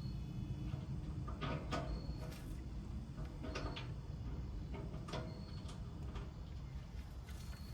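Light metal clicks and taps from grill parts being handled and fitted, a few scattered, irregular ones, over a steady low rumble.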